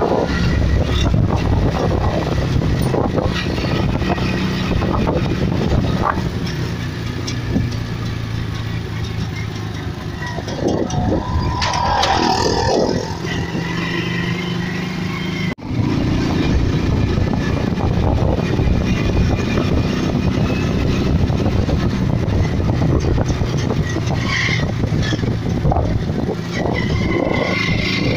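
Steady running rumble of a moving train heard from inside the carriage, wheels on rails, with a brief dropout about halfway through.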